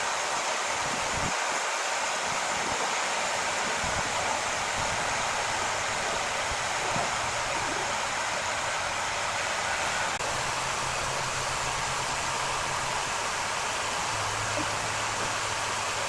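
Large wood saw running steadily with an even whir, joined about four seconds in by a low motor hum that shifts pitch twice.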